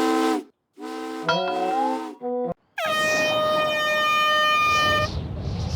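Vehicle horn and whistle sound effects blown one after another. A chord-like horn blast cuts off, a second horn blast with a rising slide and a thud follows about a second in, then a brief toot. Last comes a long, steady, high-pitched whistle of several tones, held about two seconds before it stops suddenly.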